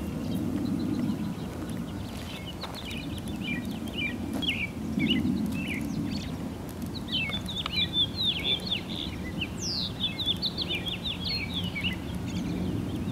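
Outdoor ambience of small birds chirping and twittering in many quick, short calls, over a low steady background rumble.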